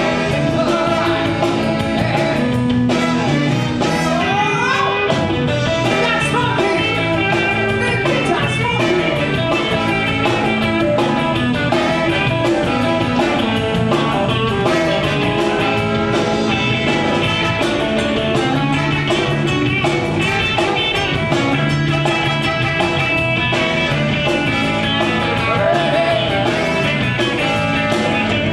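Live band playing rock and roll, with a steady beat and a rising glide in pitch about four seconds in.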